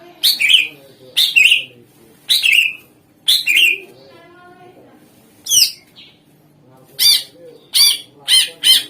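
Green leafbird (cucak ijo) singing loudly: four strong phrases about a second apart, a single swooping note, then a quicker run of sharp notes near the end.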